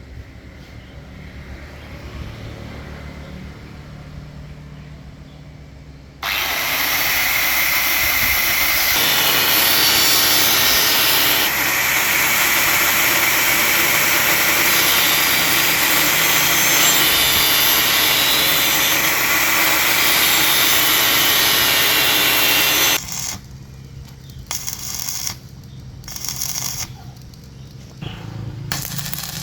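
A power tool switches on about six seconds in and runs loudly and steadily for about seventeen seconds, then stops abruptly. Several short bursts of the same noise follow.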